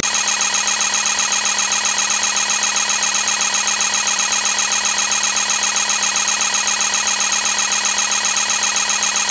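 Loud electronic alarm sound effect: a buzzing tone pulsing rapidly and evenly, several pulses a second, that starts and cuts off abruptly.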